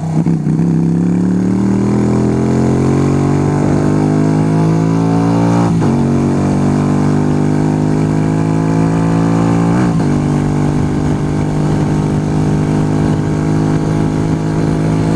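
Yamaha YBR125's single-cylinder four-stroke engine accelerating, its pitch rising. A gear change breaks it about six seconds in and again about ten seconds in, and after that it runs at a steady speed.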